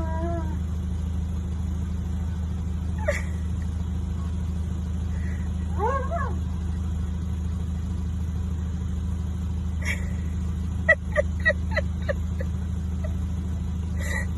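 A dog whining in pitched cries that rise and fall, with a quick run of short high yips about eleven seconds in, over a steady low hum.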